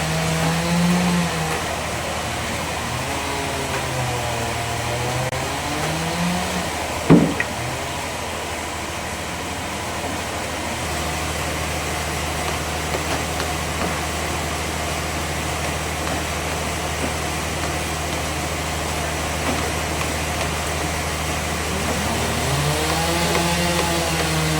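Bandsaw sawmill machinery running with a steady engine-like drone, its pitch dipping and rising near the start and again near the end. A single sharp knock sounds about seven seconds in.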